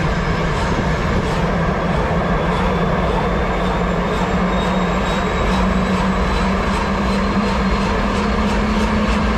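Eurocopter AS350 B3e Squirrel helicopter in flight: steady, loud turbine and rotor noise with a constant low hum.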